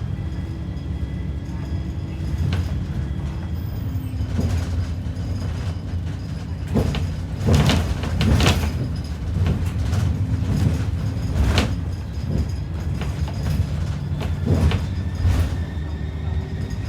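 Inside an ADL Enviro 400 double-decker bus on the move: steady engine and road rumble, with irregular knocks and rattles from the bodywork and fittings, the loudest a cluster about seven to nine seconds in.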